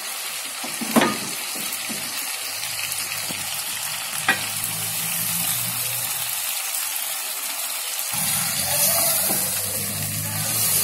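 Chicken and tomato masala sizzling steadily in a frying pan, with two sharp clicks of the spatula against the pan and stirring of the thick mixture.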